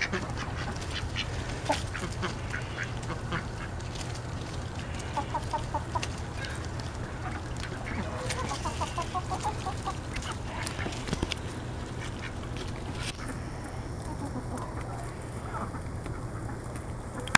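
Mixed poultry flock feeding, with Welsh Harlequin ducks quacking and many short clicks throughout; runs of quick repeated calls about five and nine seconds in.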